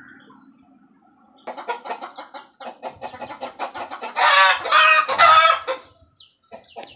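Chickens clucking in quick short notes, starting about a second and a half in, rising to three loud drawn-out squawks around the middle.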